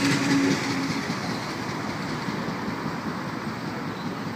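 Sydney Trains electric suburban train running on the track, its rail rumble slowly fading. A steady hum stops about half a second in.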